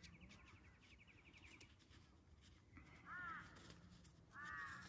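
Quiet outdoor air with birds calling faintly: a rapid high trill in the first second and a half, then two short harsh calls about a second and a half apart.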